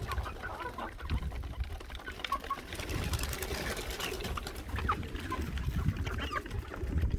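Domestic pigeons cooing in a coop, with short high chirps and faint scattered clicks.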